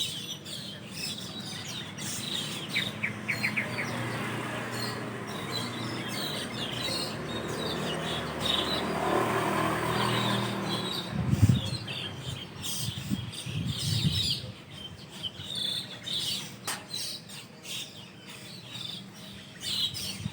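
A flock of Asian glossy starlings chirping and calling, with many short, high notes. About halfway through, a broad rumble swells and fades beneath the birds.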